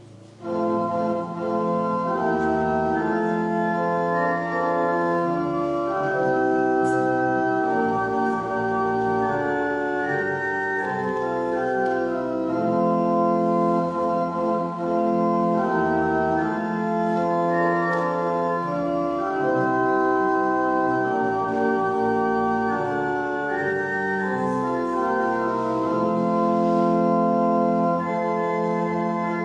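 Church organ playing a slow prelude in sustained, overlapping chords, starting about half a second in.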